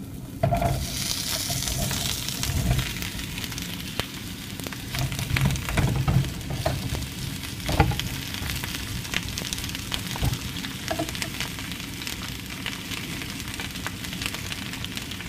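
Zucchini slices sizzling in hot oil in a frying pan: a steady frying hiss, liveliest in the first few seconds as the slices go in. A few knocks and scrapes come around the middle as the slices are spread with a wooden spatula.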